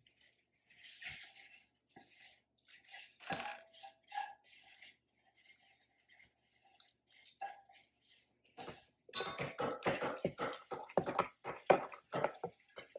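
Spoon stirring pancake batter in a bowl: scattered scrapes and clinks against the bowl, then fast, steady stirring strokes for the last few seconds.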